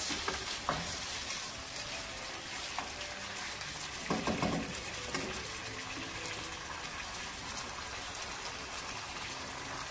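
Chicken pieces frying in a pan with honey and green pepper, a steady sizzle as the chicken browns. A brief louder sound about four seconds in.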